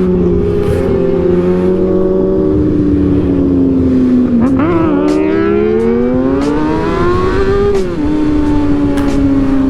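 Vehicle engine under way: its pitch sags, jumps briefly about halfway, then climbs steadily under acceleration for about three seconds before dropping at a gear change, settling back to a steady drone.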